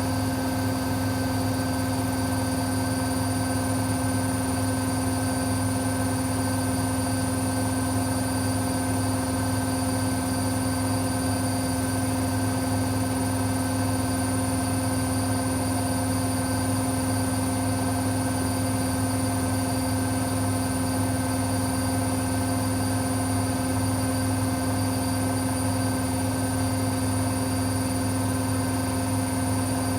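Techwood WB 91042I washing machine running steadily: an even, loud machine drone with a strong low hum and a high steady whine that holds unchanged throughout.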